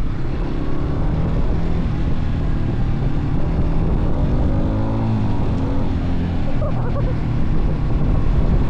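Motorcycle engine running while riding, with a shift in engine pitch around the middle as the rider slows.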